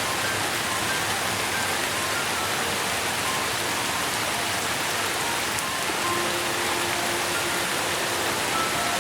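Steady rain: an even, unbroken hiss of falling rain, with short, faint soft musical notes at scattered pitches over it.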